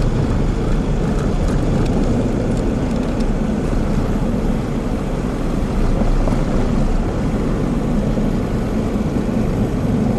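A vehicle driving: a steady engine and road rumble with wind on the microphone.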